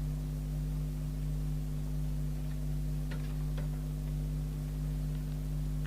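Steady low electrical hum with a couple of faint clicks about three seconds in.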